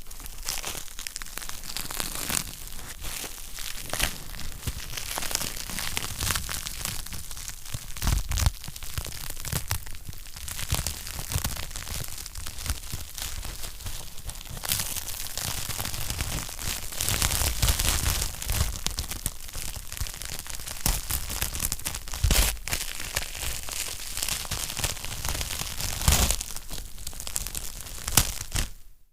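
Wood fire crackling in a fireplace: a continuous stream of small snaps and pops, with a few sharper, louder pops now and then.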